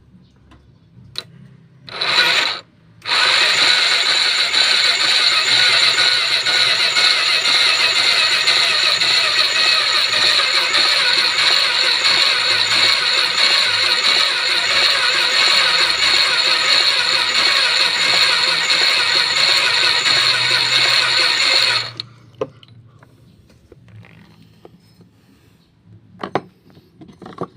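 A 200cc automatic ATV's electric starter spinning: a short burst about two seconds in, then one long steady run of nearly twenty seconds that stops suddenly, with no engine running afterwards. This is hard starting that the owner puts down partly to the starter's bendix drive assembly.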